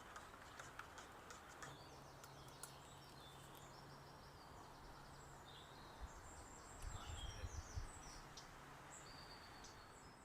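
Faint woodland ambience with birds chirping and singing in short repeated phrases. A few soft low thumps come about two-thirds of the way in.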